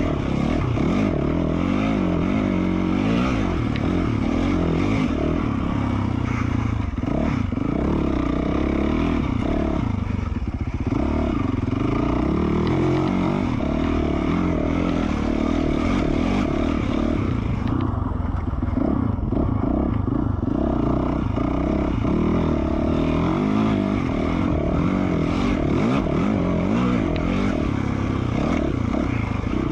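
2020 Yamaha YZ450F's single-cylinder four-stroke engine through an FMF Q4 slip-on exhaust, its revs rising and falling constantly as the dirt bike is ridden along a trail. Bits of clatter from the bike run underneath.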